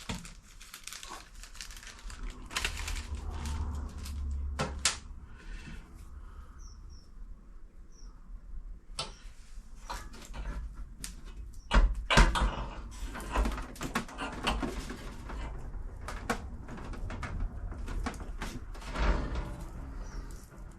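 Irregular clicks, knocks and rustling of car parts being handled and fitted by hand, with a louder cluster of knocks about twelve seconds in.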